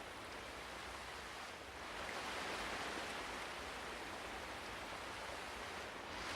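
Ocean waves washing in a steady hiss, swelling a little about two seconds in and again near the end.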